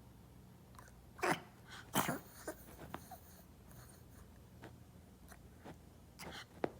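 Small dog making a few short, noisy breathy sounds like huffs or snorts. Two louder ones come about one and two seconds in, fainter ones follow, and another pair comes near the end.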